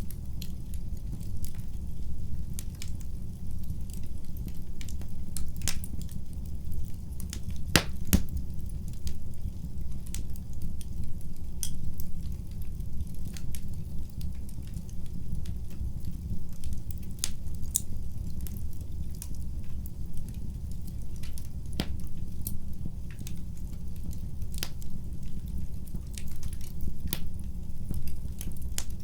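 Wood fire burning in a fireplace: a steady low rumble of the flames with irregular sharp crackles and pops, one louder pop about eight seconds in.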